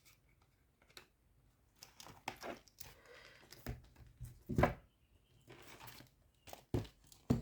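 Paper and plastic rustling and crinkling as cash envelopes and tracker sheets are handled and slipped into a budget binder, with a few sharper taps, the loudest about four and a half seconds in.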